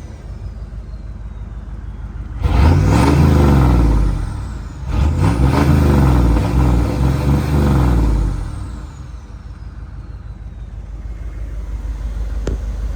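1973 Ford F-250's 7.3 IDI turbo diesel V8 idling, revved up twice for a couple of seconds each, then settling back to idle with the turbo's whine falling away after each rev. A light click near the end.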